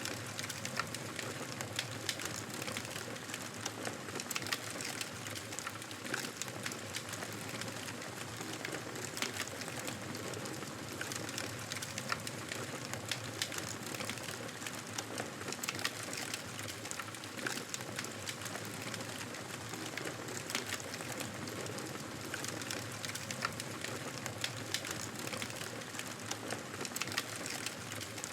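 Wood fire crackling in a fireplace: a steady hiss of flames with frequent small, irregular pops and snaps.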